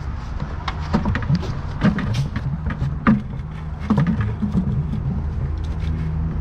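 Irregular clicks and knocks, like footsteps and tools jostling while someone walks carrying them, over a steady low rumble.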